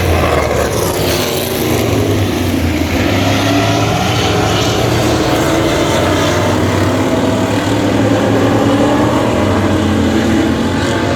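Vintage stock car engine running hard on the track, its note rising and falling with the revs.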